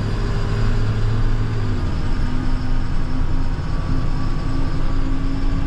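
Truck engine and road noise heard from inside the cab while driving: a steady low drone whose engine tone shifts up about two seconds in.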